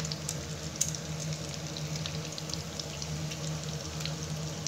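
Breadcrumb-coated, chicken-filled bread rolls frying in hot oil in a steel pan: a steady sizzle with scattered short crackles.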